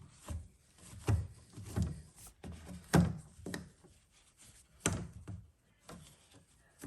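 Irregular knocks and taps of hands and a cloth working inside the plastic drain-pump housing of a washing machine, about eight in all with soft rubbing between, the loudest about three seconds in.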